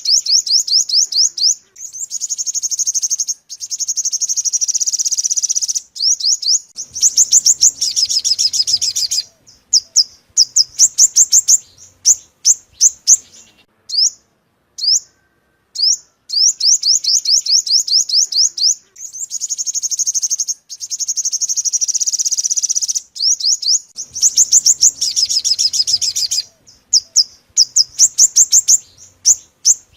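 Yellow-bellied sunbird ('five-colour' sunbird) calling: fast series of thin, very high chirps running into buzzy trills, broken by short pauses. It is a lure recording, and the same sequence comes round again about every fourteen seconds.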